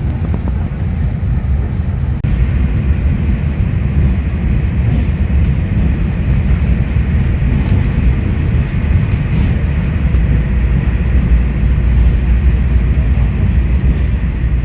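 Train running, a steady low rumble with a hiss above it, getting louder about two seconds in.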